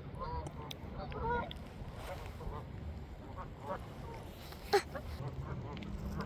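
A large flock of ducks calling over one another: many short honking calls, densest in the first second and a half. One loud, sharp call stands out about three-quarters of the way through, over a steady low rumble.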